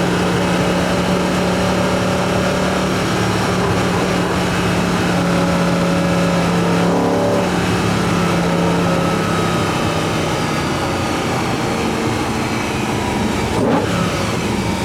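BMW E90 M3's S65 V8 induction sound through an Eventuri carbon intake plenum, the engine running at steady revs on the move. The note shifts about halfway through, and there is a short sharp sound near the end.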